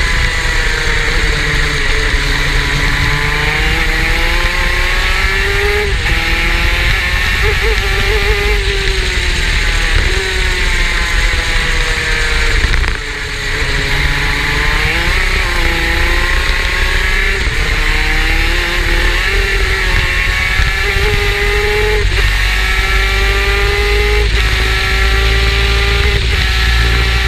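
Superkart's two-stroke racing engine running hard, its pitch climbing repeatedly through the gears and falling away under braking, over a constant hiss.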